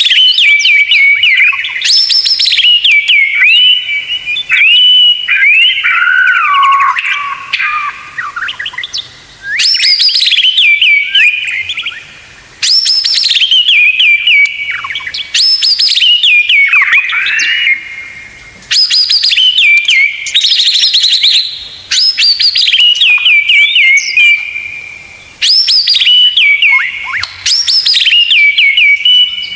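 White-rumped shama (murai batu) singing loud, repeated phrases about every three seconds. Each phrase opens with a sharp, high note sliding down, then runs into quick rapid-fire notes, the 'tembakan' fill of a tutor song.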